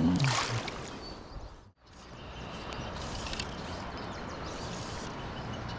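Steady rush of fast-flowing river water, with a short louder splash-like burst at the start. It drops out abruptly to silence a little under two seconds in, then comes back.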